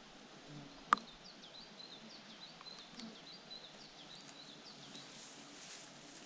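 A small songbird singing a quick run of short, high chirps for a few seconds, faint over a quiet outdoor background. A single sharp click comes about a second in.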